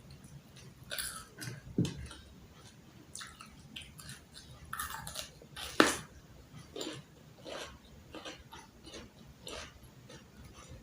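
A person eating close to the microphone: irregular chewing and crunching bites, the sharpest crunch a little before six seconds in.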